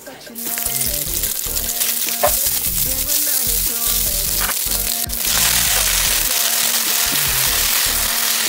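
Hot oil sizzling in a nonstick wok as dried shrimp and vegetarian ham strips are stir-fried with a spatula. About five seconds in the sizzle grows louder and fuller as shredded cabbage and carrot go into the pan.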